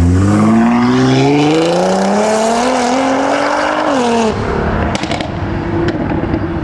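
A modified car's engine accelerating hard as it pulls away, its pitch climbing for about four seconds, then dropping sharply as the driver lifts off or shifts. A few sharp cracks follow.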